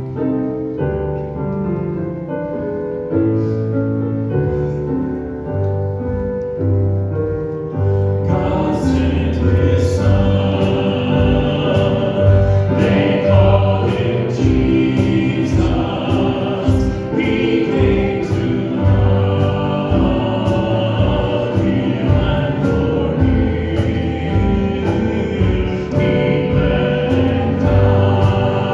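Church worship music: a piano introduction with sustained chords, then about eight seconds in the full band joins with a steady drum beat.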